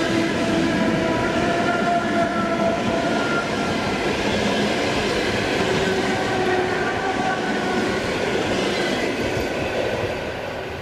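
ED4M electric multiple unit running past on the track, wheels clattering over the rails, with a few faint steady whining tones in the noise. The sound eases off near the end.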